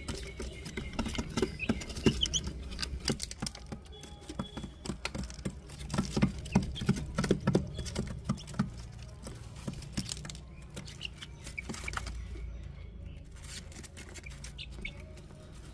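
Asil and Kadaknath chicks moving about, a busy patter of small taps and scratches with a few faint peeps.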